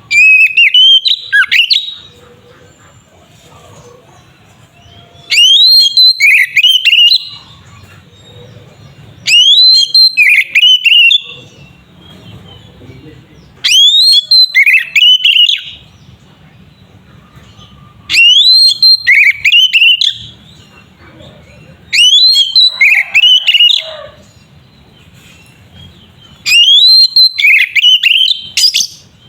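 Oriental magpie-robin (kacer) singing loudly in full song, repeating a phrase of about two seconds of rising and falling whistled notes seven times, roughly every four seconds. A faint low hum is heard between the phrases.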